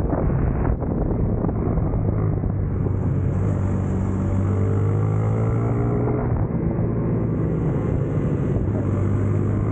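Racing motorcycle engine running hard on track, a steady low engine note with the revs climbing about halfway through, mixed with wind rushing over the microphone.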